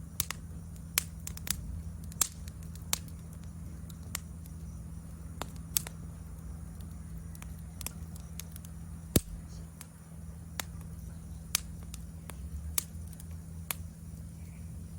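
Wood fire burning in a fire pit stand, crackling with sharp irregular pops over a low steady rumble; the loudest pop comes about nine seconds in. A steady high insect trill runs underneath.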